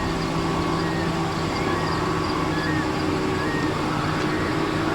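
Freight train's diesel locomotives running steadily, a constant engine hum over a wash of noise.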